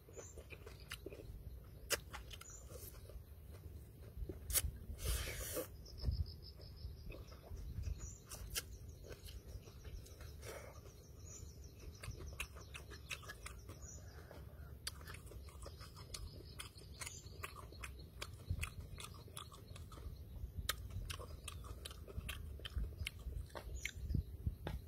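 A man chewing a mouthful of instant noodles, with many short wet mouth clicks and smacks.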